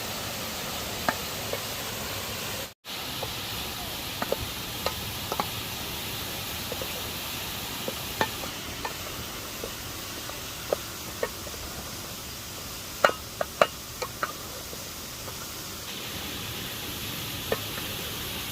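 Steady rushing of a waterfall with scattered light clicks and knocks from cooking at the pot, including a quick run of sharper, slightly ringing taps about two-thirds of the way through. The sound cuts out for a moment near the start.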